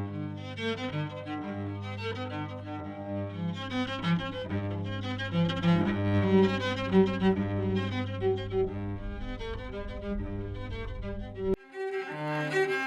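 Solo cello played with the bow: a melody moving over a low held note that sounds throughout. The low note breaks off near the end, and the playing changes abruptly.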